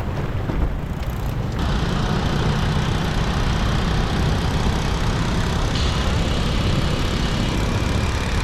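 Motorbike engine running and road noise while riding through city traffic, a steady low rumble.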